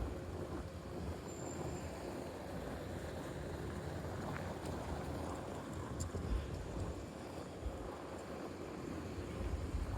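Steady city street ambience: a wash of traffic noise with wind buffeting the microphone in low, uneven rumbles.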